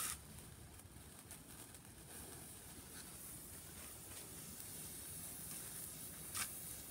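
Hand-held fireworks hissing faintly as they spray sparks, with a few soft crackles and one sharper crack about six and a half seconds in.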